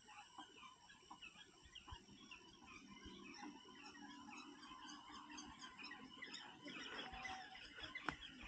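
Faint village ambience of chickens clucking amid many small chirping calls, with a sharp click near the end.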